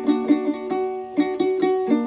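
Music picked on a plucked string instrument with a ukulele-like sound: a run of single notes over a held lower note, with a brief pause about halfway.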